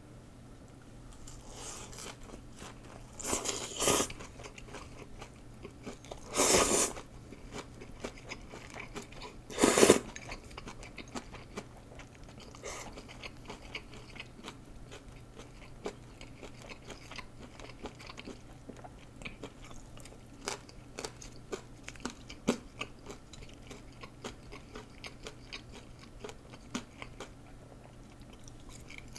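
Close-up eating sounds: a person biting and chewing lettuce, herbs and pan-fried dumplings, with crunching and wet mouth clicks. There are three loud crunches in the first ten seconds, then softer chewing.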